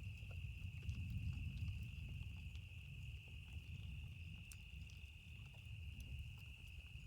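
Campfire crackling in sparse, scattered pops over a low rumble of distant thunder that slowly fades. A steady high-pitched insect trill sounds over both.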